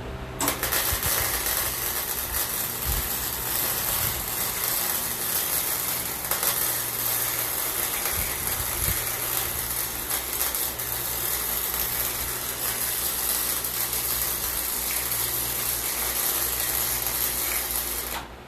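A machine running steadily with a dense hissing noise, starting about half a second in and cutting off just before the end.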